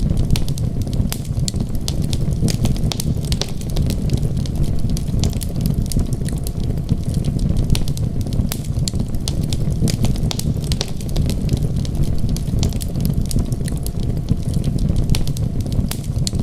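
Wood fire crackling, with frequent sharp, irregular pops over a constant low rumble.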